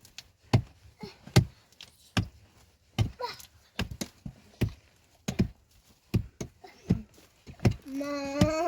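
A steady series of sharp knocks, a little more than one a second, like repeated chopping or pounding. A voice starts near the end.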